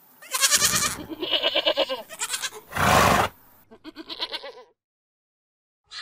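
Goats bleating in several wavering calls, with a louder, rougher call about three seconds in.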